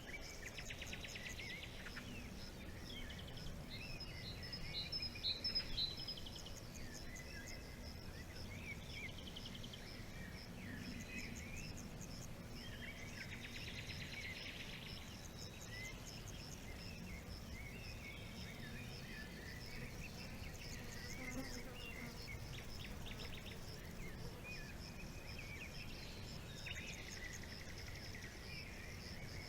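Forest birds calling, many short chirps and trills scattered through, over a steady fast-pulsing insect chirr. A louder run of bird notes comes about five seconds in.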